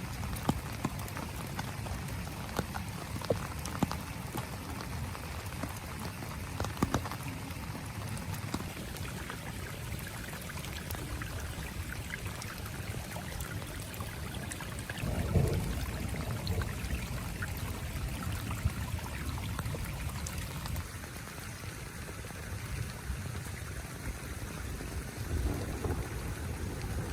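Heavy rain falling on a small tent: a steady hiss with many scattered sharp drop ticks, and a short low rumble about halfway through.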